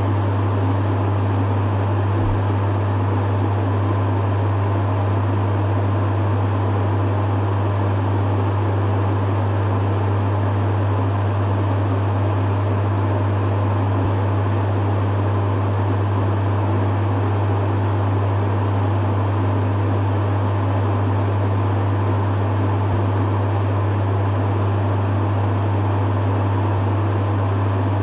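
Dehumidifier running steadily: a strong low hum with airy fan noise over it, unchanging throughout.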